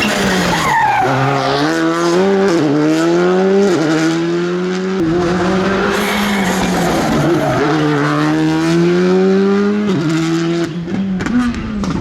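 Rally car engine at high revs, its pitch climbing under acceleration and dropping at each of several gear changes. Near the end there is a quick cluster of sharp cracks.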